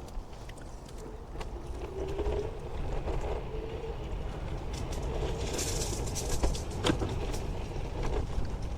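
Scooter rolling over a bumpy path on solid rubber tyres, rattling and knocking over the bumps, with strong wind rumbling on the microphone.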